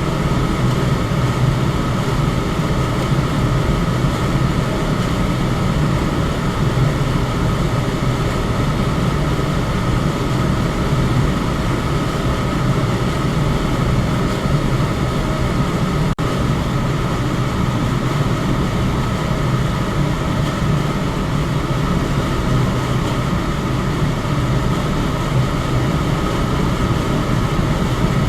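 Electric fan running steadily: a constant rush of air over a low motor hum, broken by a split-second dip about halfway through.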